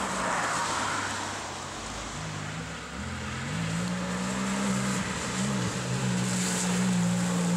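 Porsche 911 (997) Turbo's twin-turbocharged flat-six engine running, its note climbing about three seconds in and then holding steady, over a constant hiss.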